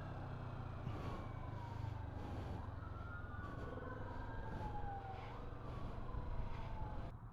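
A siren wailing, its pitch sliding slowly up and down, over the steady running of a Kawasaki Vulcan S 650's parallel-twin engine and road noise. The higher road noise drops away abruptly near the end.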